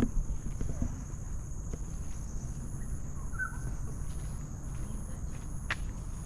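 Insects in tropical forest making a steady high-pitched drone, one higher band of it switching on and off, with footsteps on the trail underneath. A short chirp sounds about three seconds in, and a sharp click near the end.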